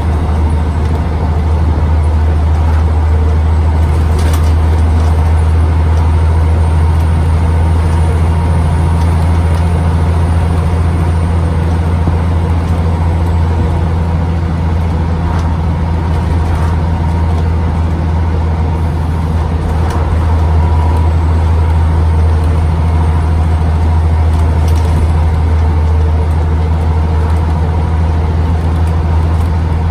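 Diesel engine of a Scania CN94UB OmniCity single-deck bus heard on board, holding a steady low drone at an unchanging engine speed, with a few faint rattles.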